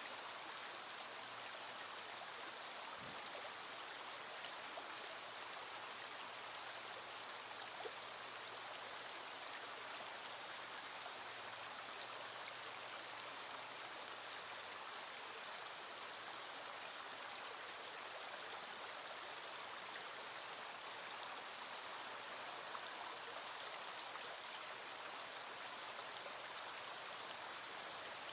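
Small stream running steadily, with scattered raindrops ticking over the constant flow.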